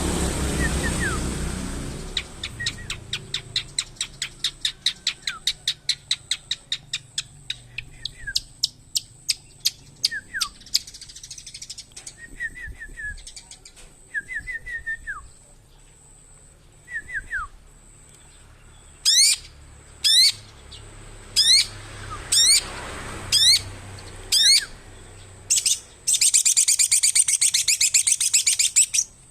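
Long-tailed shrike calling: long runs of fast, evenly repeated chirps and a few short soft notes, then a series of loud sharp downward-sweeping calls and, near the end, a dense rapid chatter.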